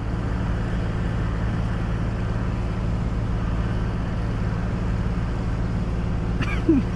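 Semi-truck's diesel engine idling steadily, a constant low hum. A few brief pitched sounds come in near the end.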